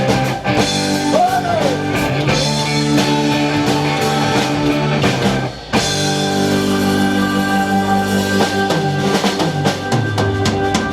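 Live rock band playing an instrumental passage, with drum kit and guitars. The music drops out for a moment a little over halfway through, then carries on.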